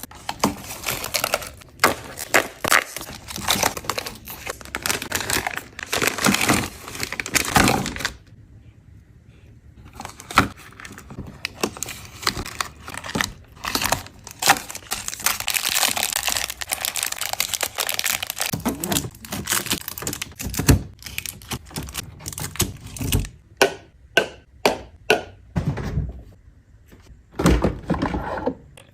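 Food packaging and containers being handled: plastic crinkling and tearing, with many knocks and clunks as items are set down.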